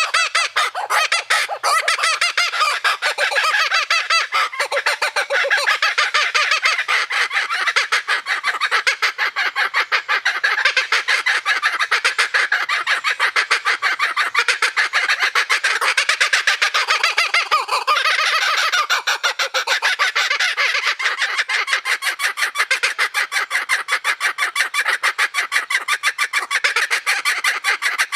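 Laughing kookaburras calling: a fast, continuous run of loud cackling notes that carries on without a break.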